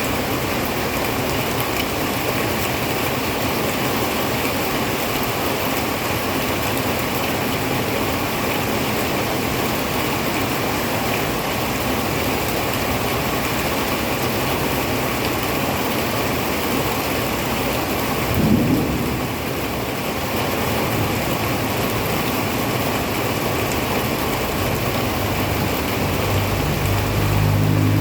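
Heavy rain pouring steadily. About two-thirds of the way through there is a brief louder low sound, and a low engine-like hum comes in near the end.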